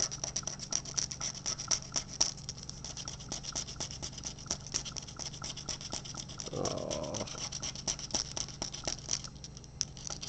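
Scratch-off lottery ticket being scratched, rapid short scraping strokes, several a second, rubbing the coating off the play area.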